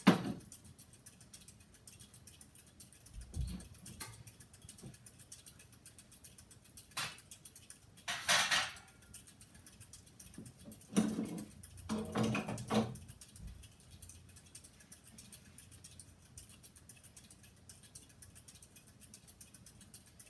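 Casablanca Next Generation Alana ceiling fan running on its low speed with a faint steady hum, broken by a few brief knocks and rustles.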